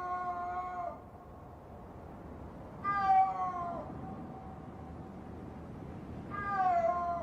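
Snow leopard calling in the mating season, thought to be a female: long drawn-out yowls that fall in pitch at the end and linger as an echo. One call ends about a second in, another comes about three seconds in, and a third starts near the end. In adult snow leopards, such calling happens only at this time of year, when they call to each other.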